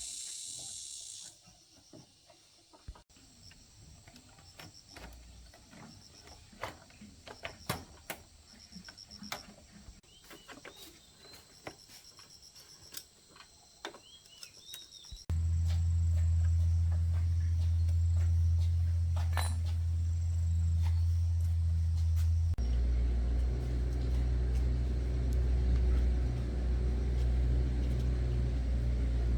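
Light clicks and taps at first, then about halfway through the Win FIGO 110cc motorbike's engine is running with a steady low hum. Its note changes a few seconds later.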